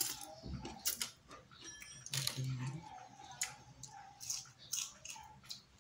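Close-up eating sounds: a person chewing a mouthful of rice and guso seaweed eaten by hand, with a run of short wet mouth clicks and lip smacks.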